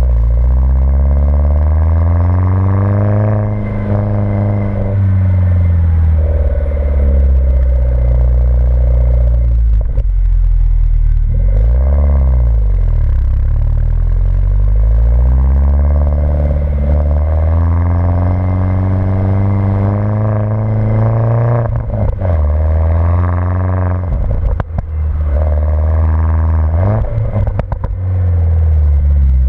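Mini Cooper S engine through a modified exhaust while driving, its note climbing and falling again and again as it revs up through the gears and drops back. Toward the end the note breaks off briefly a few times, with short crackly streaks as the throttle is lifted.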